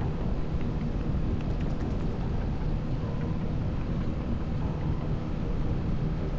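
Motorcycle running steadily at road speed, its engine mixed with heavy wind rush on the microphone.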